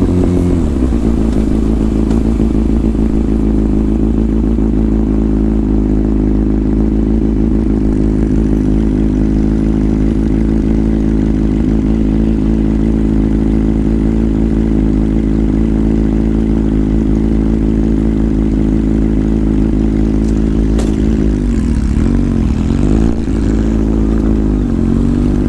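Inline-four motorcycle engine running at a steady cruising speed. Its pitch drops just after the start, then dips and climbs again near the end as the bike slows and speeds back up.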